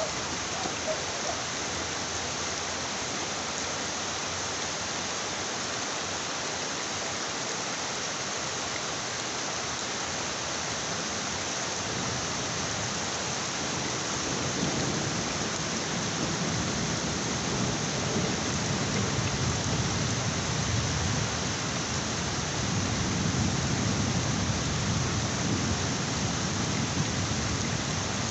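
Heavy rain falling in a steady hiss. About halfway through, a long low roll of thunder builds, swells twice and fades near the end.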